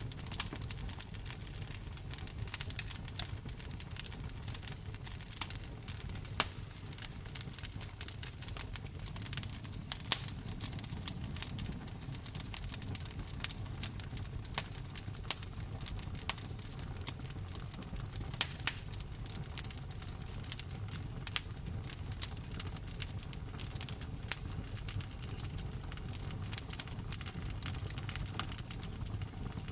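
Wood fire crackling in a fireplace: irregular sharp snaps and pops, a few louder than the rest, over a steady low rumble of the burning flames.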